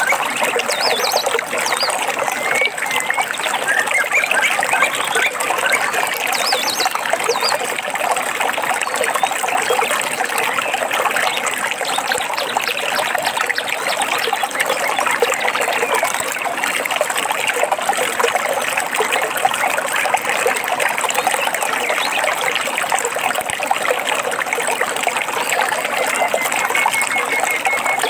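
A stream trickling and babbling steadily, with a few short bird chirps about one and six seconds in and a short run of bird notes near the end.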